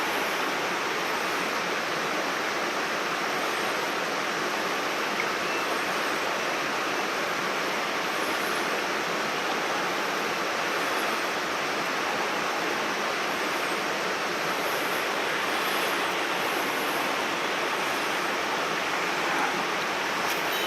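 Mountain stream water rushing over rocks, a steady, unbroken roar.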